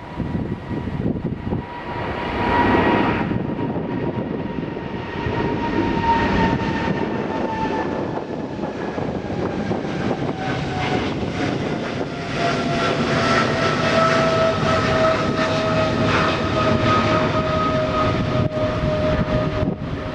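Jet airliner's engines running with a loud rumble and a clear whine that slowly falls in pitch as the aircraft moves past.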